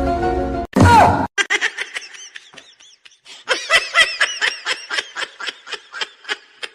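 High-pitched giggling laughter: a long run of short 'hee' pulses, several a second, after music cuts off and a loud sudden burst about a second in.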